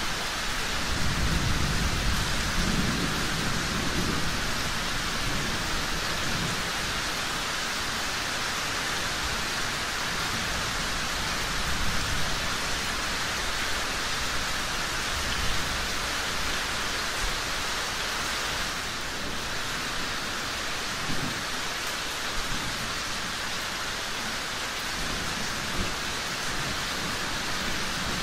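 Steady rain falling, with a low rumble of thunder starting about a second in and lasting a few seconds. A few brief sharp pops come later on.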